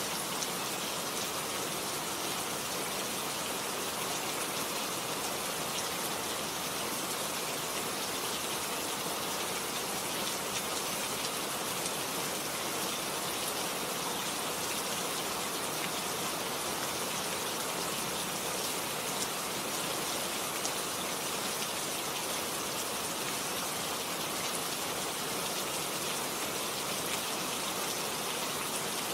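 Steady rain falling, an even hiss with fine individual drop hits throughout, no thunder.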